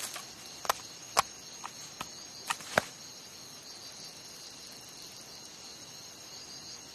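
Steady high chirring of insects, with about six short sharp clicks in the first three seconds.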